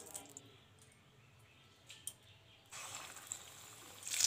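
Mostly near silence, with a couple of faint clicks about two seconds in. Then a faint hiss of hot oil, and near the end loud sizzling as a gram-flour-battered tomato chop goes into the hot oil to deep-fry.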